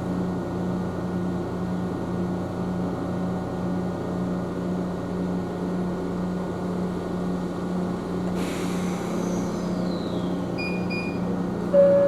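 Ohmi Railway electric train running, a steady hum heard from inside the car. Near the end a short chime rings out ahead of the next-stop announcement.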